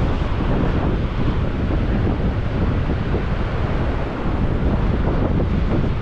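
Wind buffeting the microphone: a loud, steady, low rumble of wind noise.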